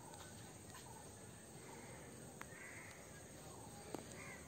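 Quiet outdoor ambience with faint distant bird calls, caw-like, and two faint clicks, the louder one a little past the middle.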